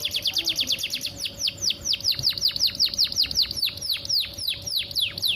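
Female domestic canary calling to a male: a fast run of short downward-sweeping chirps, several a second, the notes growing longer and sweeping lower toward the end.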